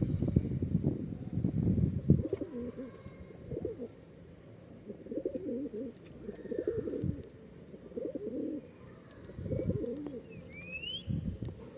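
Pigeons cooing over and over in short low phrases about a second apart, after a loud rough rustling noise in the first two seconds. Near the end a smaller bird gives a brief rising chirp.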